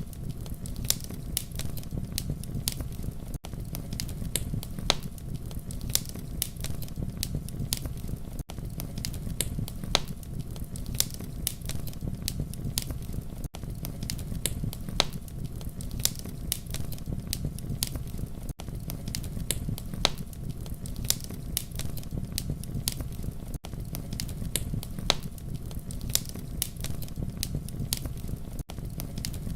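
Wood fire crackling with many sharp, irregular pops over a low steady rumble, broken by a brief dropout about every five seconds.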